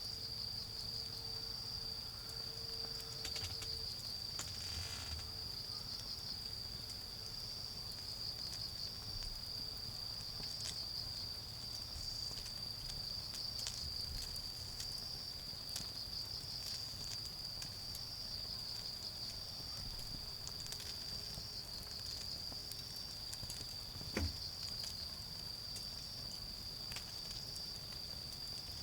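Autumn crickets singing a steady high-pitched chorus, with a wood fire burning low and giving occasional faint crackles, one sharper pop about 24 seconds in.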